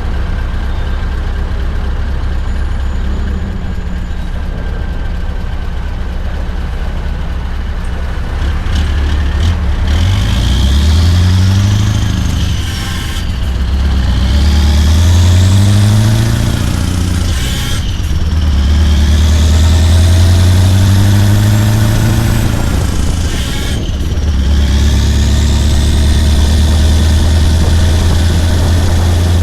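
Scania R580 V8 truck engine with an 8-inch straight-pipe exhaust, running steady and low at first, then pulling away. The pitch rises three times, with a short break at each gear change, before it settles into a steady, louder drone.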